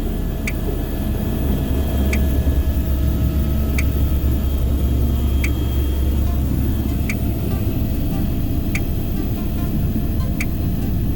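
A steady low vehicle rumble, with a short high tick repeating evenly about every second and a half.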